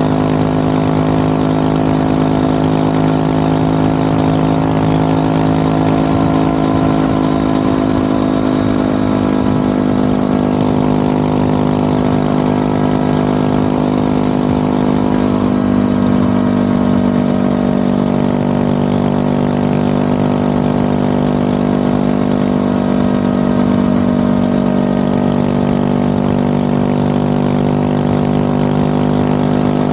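Motorcycle engine running at a steady cruising pace, its note holding nearly constant with slight shifts in pitch, over a steady rush of noise.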